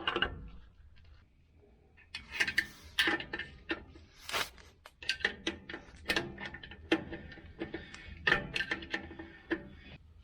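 Star-wheel adjuster of a 2012 Ford F-350's rear drum brake shoes clicking against its spring as it is turned down with a brake adjusting tool, with metal scraping from the tool. The clicks start after a short lull about two seconds in and come irregularly, a dozen or more.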